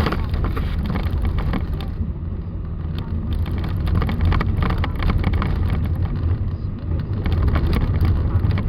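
Car driving on a snow-covered road: a steady low rumble of engine and tyres, with irregular crackling from snow and slush under the wheels.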